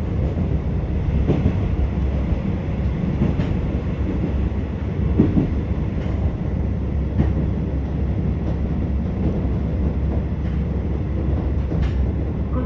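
Interior noise of a KiHa 47 diesel railcar running along the line: a steady low rumble from the engine and the wheels on the track, with a few light knocks scattered through it.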